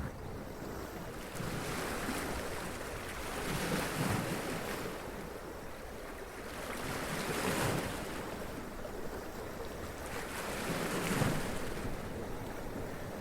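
Sea waves splashing and running up over rocks, surging about every three to four seconds, over a constant low rumble of wind on the microphone.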